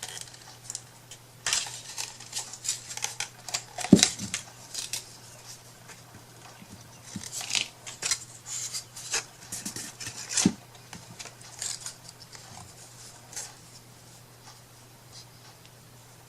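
Irregular small clicks, taps and scrapes of hands working with craft tools and pieces at a table, with two louder knocks about four and ten seconds in, thinning out near the end.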